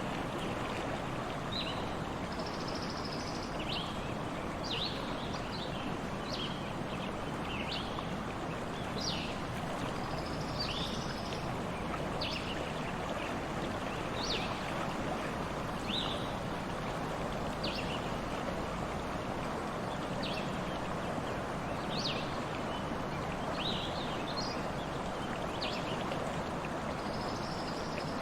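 A stream running steadily, with birds giving short high chirps every second or two and a few brief buzzy trills.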